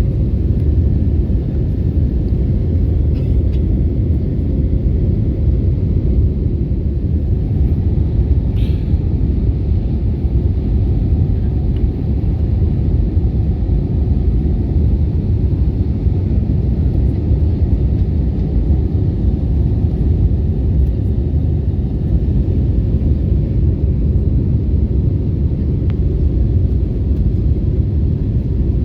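Steady low rumble of an Airbus A321neo airliner's engines and airflow, as heard in flight or on the ground, with no rise or fall in level.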